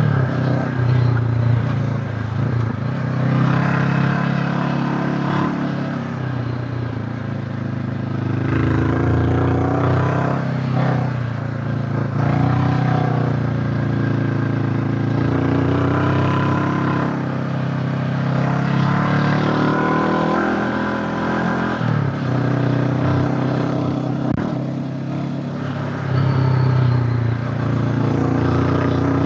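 Honda CB500X's parallel-twin engine heard while riding, its pitch repeatedly rising under throttle and dropping back, as with gear changes and throttle on and off.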